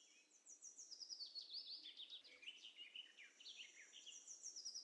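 Faint birds chirping in the background: a busy run of short, quick high-pitched chirps starting about half a second in.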